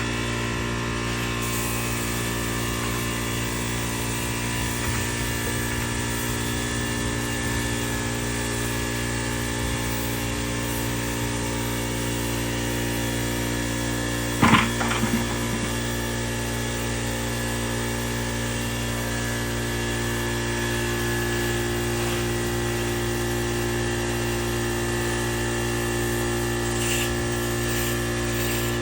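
A steady mechanical hum, like a small motor running at constant speed, with a short clatter about halfway through.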